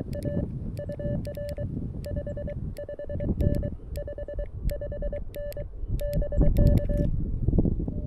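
Morse code (CW) tone from a CFT-1 QRP transceiver, one steady pitch keyed in quick dits and dahs with a click at the start and end of each element; it stops about 7 seconds in. Wind rumble underneath.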